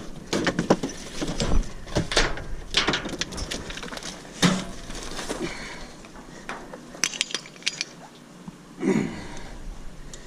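Small metal parts clinking and knocking in irregular taps and clatters as a gas grill's aluminum and brass fittings are handled and taken apart for scrap.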